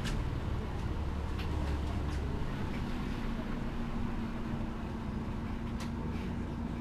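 MAN Lion's City G articulated city bus with a Euro 6 diesel engine running under way: a heavy low rumble that eases about two seconds in, giving way to a steady hum, with a few faint clicks and rattles.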